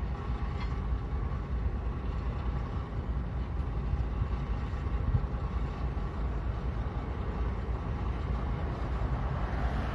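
Steady low rumble of heavy equipment's diesel engines running at a railway derailment clean-up.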